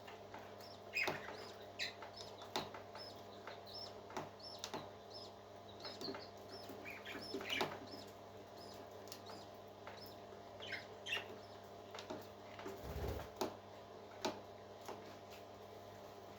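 Baby parrot chicks peeping, short high chirps scattered throughout, with sharp little clicks among them over a steady low hum. A dull low thump comes about three-quarters of the way through.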